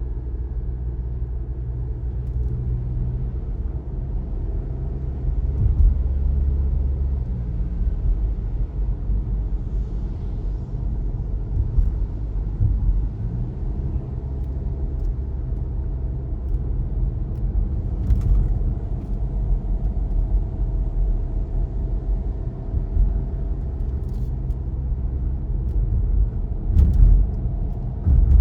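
Car driving on the road: a steady low rumble of engine and tyres, with a few short sharp knocks in the second half.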